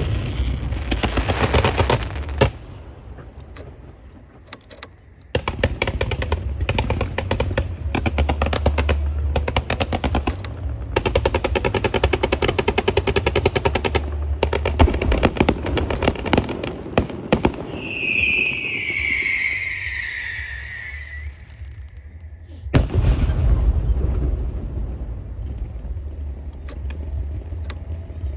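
Strings of firecrackers crackling in long, rapid volleys like machine-gun fire, with a short lull a few seconds in and a fresh loud volley near the end. A whistling tone slides down in pitch for about three seconds past the middle.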